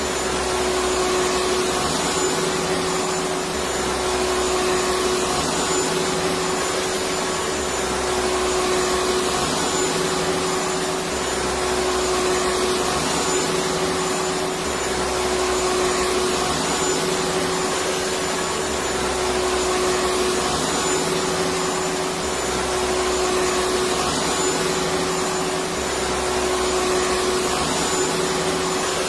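Vacuum cleaner motor running steadily, a continuous rushing drone with a constant hum tone and no changes in speed.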